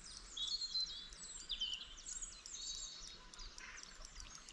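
Songbirds singing, a steady run of high chirps and quick warbling notes.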